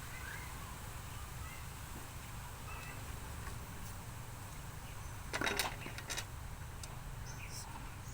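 A brief clatter of sharp knocks a little after five seconds in, over a steady low hum, with a few faint high chirps.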